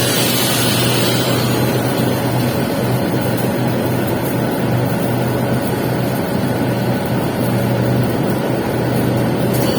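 Welding arc on a pipe capping pass: a steady crackling sizzle over a constant low hum.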